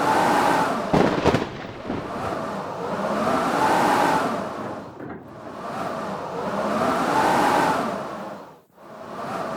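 Blizzard wind howling in repeated gusts that swell and fade about every three and a half seconds, the pitch of the howl rising and falling with each gust. A few sharp knocks come about a second in.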